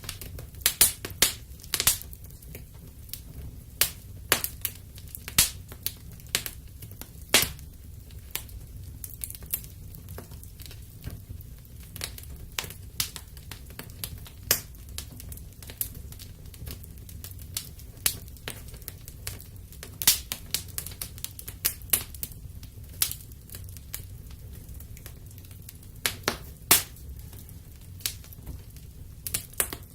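Wood fire crackling in a fireplace: irregular sharp pops and snaps, some in quick clusters, over a steady low rumble of the burn.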